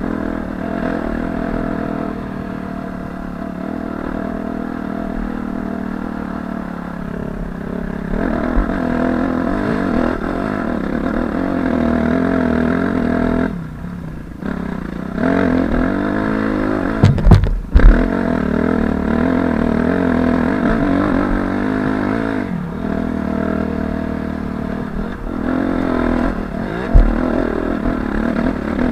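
2005 Suzuki RM-Z250's 250cc four-stroke dirt-bike engine running under changing throttle while ridden, its pitch rising and falling, with the throttle briefly shut about halfway through. A few sharp knocks come a few seconds later and one more near the end.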